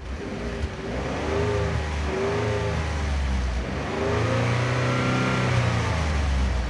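Ford F-150's 3.5L EcoBoost twin-turbo V6 through a Magnaflow Street Series single side-exit cat-back exhaust, revving up and easing back down twice.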